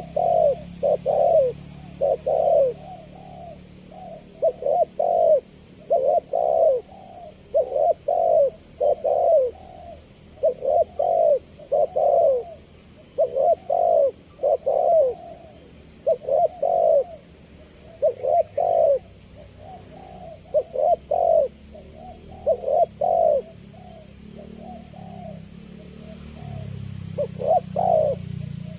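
Spotted dove (tekukur) cooing: short phrases of low, mellow coos repeated one after another without a break.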